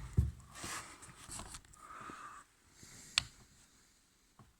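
Light handling noises: a dull knock just after the start, a sharp click a little after three seconds in, and a faint click near the end.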